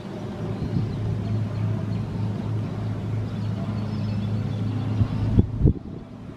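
A steady low engine hum, with rumbling wind noise on the microphone and two sharp knocks near the end.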